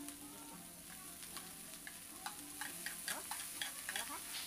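Ground chicken sizzling in hot oil in a pan, with a utensil repeatedly scraping and clicking as the meat is pushed from a plate into the pan and stirred.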